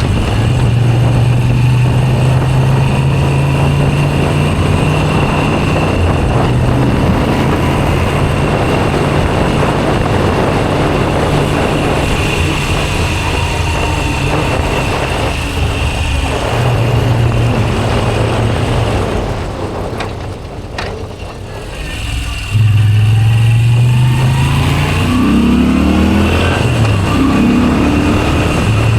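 Moto Guzzi V7 Special 850's air-cooled transverse V-twin running through a Zard aftermarket exhaust while riding. It holds a steady pull, eases off around twenty seconds in, then comes back on the throttle abruptly, with the revs rising several times near the end.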